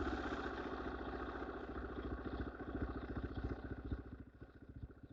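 A 250cc dirt bike's engine running at low revs with an even firing beat, growing fainter and dying away near the end.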